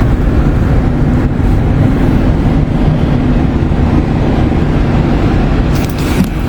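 Steady loud low rumble of a moving vehicle: road and engine noise.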